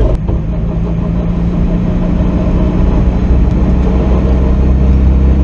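Vehicle engine running at a steady speed, a low even drone, with a sharp click just after the start.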